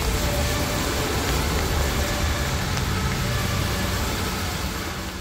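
Steady rain on a city street with the low rumble of a motor vehicle engine; the sound fades out near the end.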